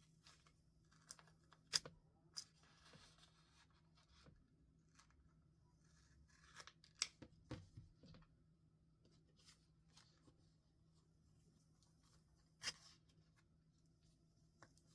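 Quiet paper and stationery handling while journaling: soft paper rustles and a few sharp clicks, the loudest about 2, 7 and 12.5 seconds in.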